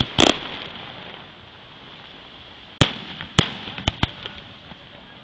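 Fireworks display shells bursting in sharp bangs, each with a short fading tail. One comes just after the start, and a quick cluster of four follows about three to four seconds in.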